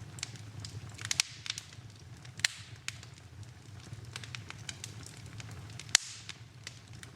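Wood fire burning in a fireplace, crackling with irregular sharp pops over a low steady rumble. The loudest pops come about a second in, around two and a half seconds, and near six seconds.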